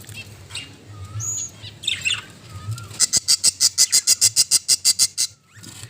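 Budgerigars chirping: a few scattered high chirps and short whistles, then about three seconds in a fast, even run of short high chirps, about nine a second, lasting around two seconds.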